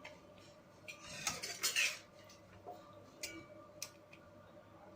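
Metal spoon scraping and clinking against cookware, with a scrape of about a second near the start followed by a few light clinks.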